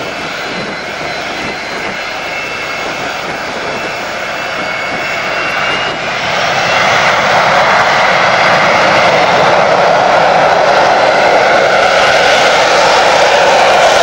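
Fixed-wing aircraft engine running with a faint high whine, growing clearly louder about halfway through as the aircraft comes closer or powers up.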